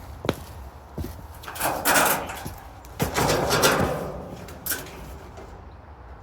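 Steel raised-bed panels being handled and shifted: a few sharp metallic knocks with longer scraping and rattling in between.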